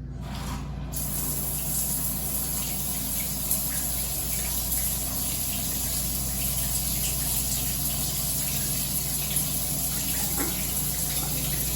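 Water running steadily from a newly installed rain shower head, starting about a second in.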